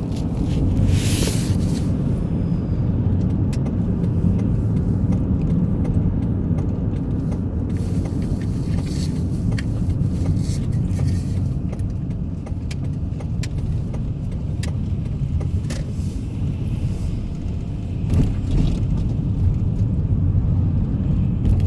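Car driving, heard from inside the cabin: a steady low road rumble, with scattered light ticks and rattles and a brief hiss about a second in.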